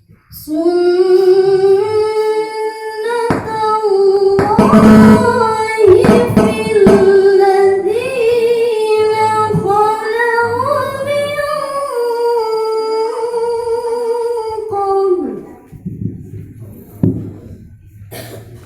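A woman's voice in melodic Quranic recitation (tilawah), holding one long ornamented line with wavering turns for about fifteen seconds before it drops off.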